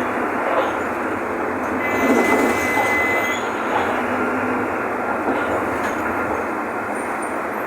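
Mercedes-Benz OF-1519 BlueTec 5 diesel city bus running on the move, heard from inside the cabin as a steady mechanical noise, with a brief high squeal about two seconds in.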